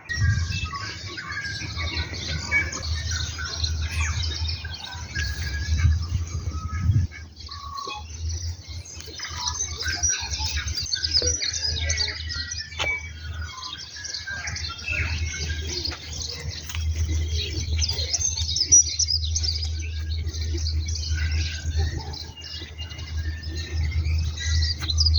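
Several songbirds singing, a steady jumble of short chirps and trills, over a low rumble that drops out for a few seconds about seven seconds in.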